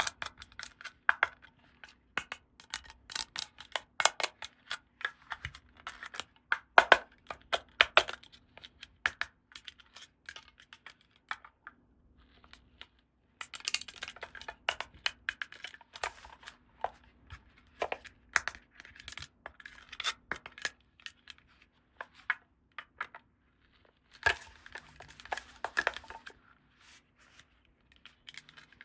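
Small plastic toy pieces and packaging handled close up: many sharp clicks and taps, with two spells of tearing and crinkling, one about halfway through and one near the end.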